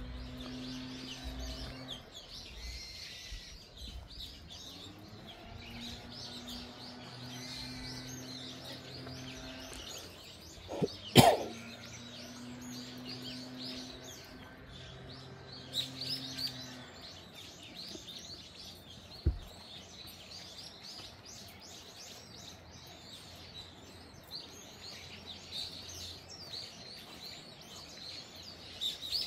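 Small birds chirping and singing in woodland, many short calls overlapping. A low steady hum comes and goes, and a single loud sharp knock stands out about eleven seconds in.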